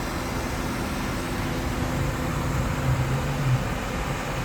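Steady low rumble and hiss of vehicle-like background noise, with a low hum that grows stronger for a moment between about two and three and a half seconds in.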